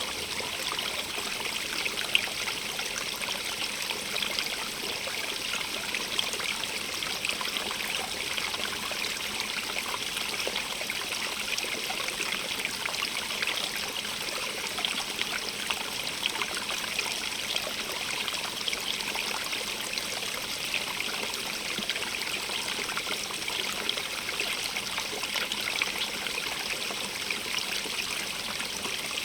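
A stream running and trickling over rocks, a steady splashing hiss full of small droplet ticks.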